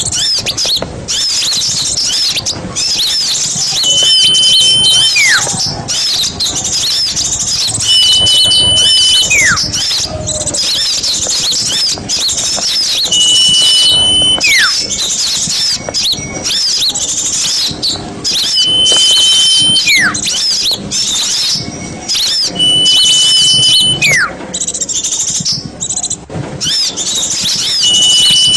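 A dense chorus of many small birds chirping and twittering, with a held whistle that drops into a steep falling whistle repeating about every five seconds, as a looped bird-lure recording.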